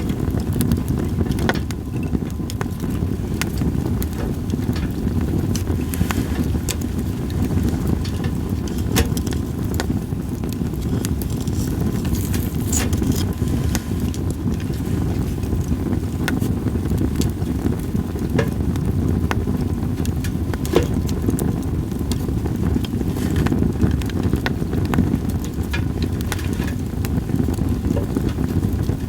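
Campfire of split sawtooth oak logs crackling, with sharp irregular pops scattered throughout over a steady low rumble of wind.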